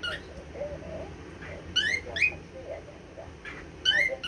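Cockatiel calling with short, quickly rising whistled chirps: one at the start, two just before the middle and two more near the end, with soft low chattering between them.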